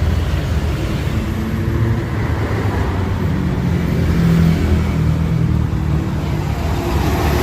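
City street traffic: the engines of passing road vehicles running, a steady loud rumble with an engine hum.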